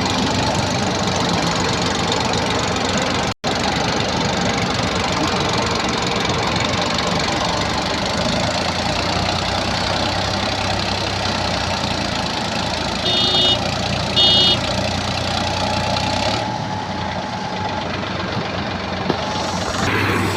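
Diesel engine of farm machinery running steadily at a fairly loud level, with two short high beeps past the middle.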